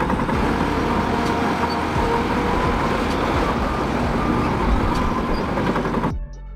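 Bulldozer's diesel engine running steadily, cutting off abruptly about six seconds in.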